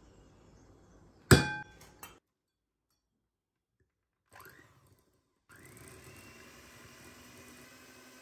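A sharp clink of kitchenware, one hard strike that rings briefly, followed by a few lighter clicks. A few seconds later a small electric motor spins up and runs steadily and faintly.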